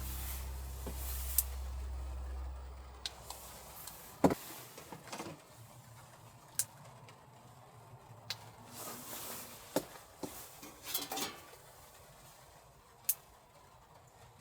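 A low hum that cuts off with a sharp click about four seconds in, followed by scattered clicks and knocks.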